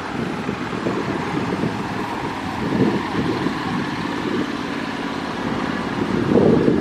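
A motor vehicle engine running, with a rumbling, uneven noise that grows louder near the end.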